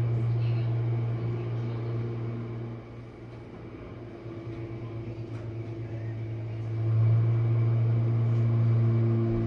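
Jenn-Air dishwasher running mid-cycle: a steady low hum of its pump motor. The sound drops in level about three seconds in, pulses unevenly, then comes back up near seven seconds.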